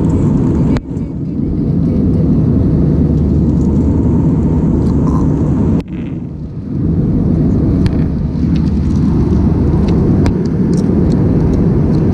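Steady, loud, low rumble of a passenger airliner's cabin noise, engines and airflow, heard from inside the cabin. It drops abruptly and briefly twice, about a second in and about halfway through.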